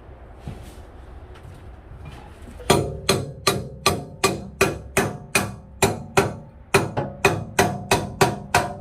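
Hammer blows on steel, about two to three a second, starting roughly three seconds in. Each strike rings briefly.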